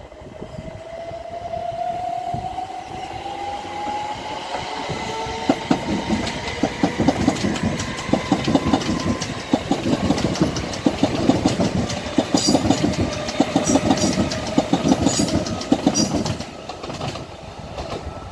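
A train passing on the line, with a whine that rises in pitch over the first few seconds. Then comes a dense, rapid clatter of wheels over rail joints, which eases off near the end.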